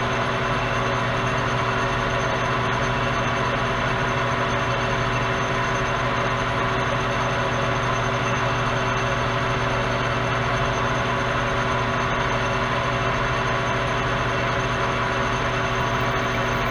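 Metal lathe running at a steady speed, a constant hum with several steady tones, while set up for a light boring skim.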